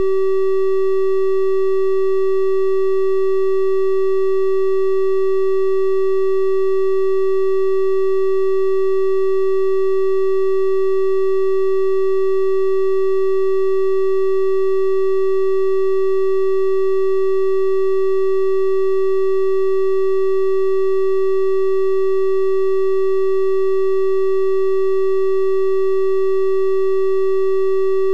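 A steady electronic 384 Hz triangle-wave tone, one unchanging pitch held throughout, with faint higher overtones that give it a slightly brighter sound than a pure sine.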